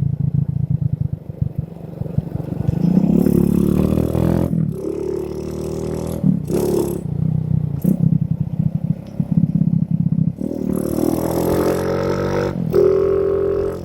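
Motorcycle engine under way, its pitch rising as it accelerates about two seconds in and again after about ten seconds, settling lower in between.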